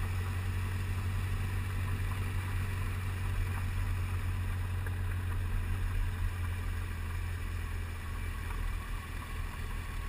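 Motorcycle running at a steady cruising speed, heard from the moving bike as a steady low hum with wind hiss, easing slightly near the end.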